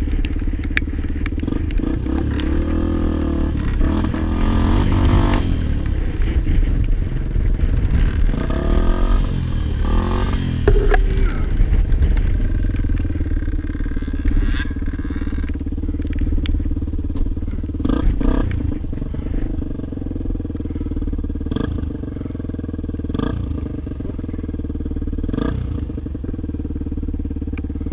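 A motorcycle engine runs steadily and its pitch rises and falls as it is throttled, heard close up from a camera on the rider. Short knocks and clatter come every second or two in the second half.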